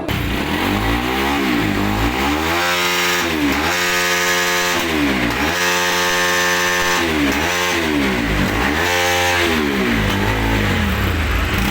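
Motorcycle engine revved up and back down about five times in a row, the pitch rising and falling with each blip of the throttle.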